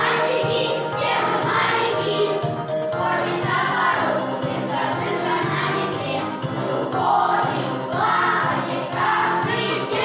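Children's class choir singing a song in unison over instrumental accompaniment with a steady beat.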